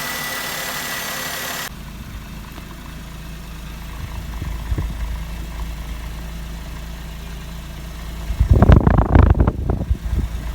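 Maruti Suzuki K-series car engine running at idle with a steady low rumble. A hiss with a high steady tone cuts off suddenly about two seconds in, and near the end there are a couple of seconds of loud, irregular rumbling.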